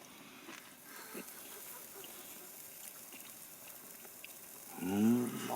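Faint crackling and hiss of the campfire, then near the end a loud, drawn-out, wavering vocal moan.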